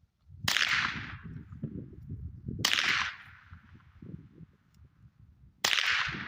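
Three shots from a suppressed .22 LR semi-automatic rifle (a custom 10/22 build with a Dead Air Mask suppressor), spaced about two and three seconds apart, each a sharp crack that fades over about half a second.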